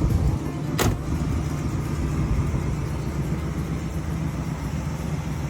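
Car engine running steadily with a low, even hum, and one sharp click about a second in.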